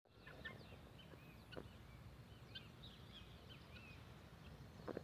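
Faint, scattered high chirps of birds over a steady low rumble.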